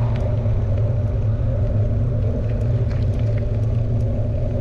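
Steady low rumble of wind and riding noise on a GoPro's microphone while mountain biking, with light ticks now and then.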